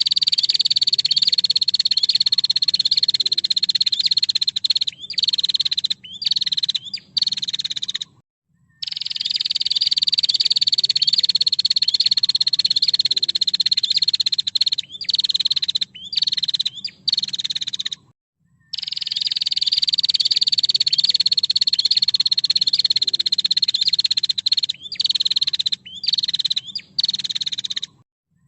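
Female prinia giving its fast, buzzing rattle of a call. Each round is a long unbroken trill of about seven seconds, then a few short broken bursts, then a brief stop. The same sequence repeats three times, like a looped recording, over a faint low hum.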